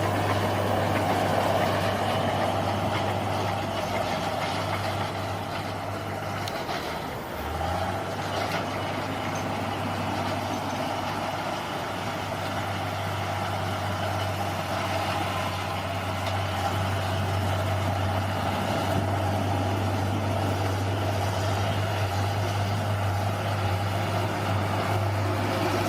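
Bulldozer's diesel engine running steadily under work, its note dipping briefly about seven seconds in before picking up again.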